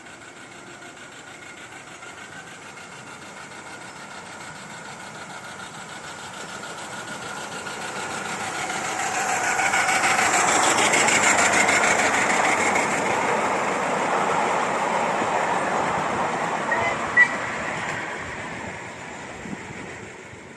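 A steam-hauled train passing: its rumble and rattle grow steadily louder, hold for several seconds at their loudest, then fade away, with one sharp click near the end.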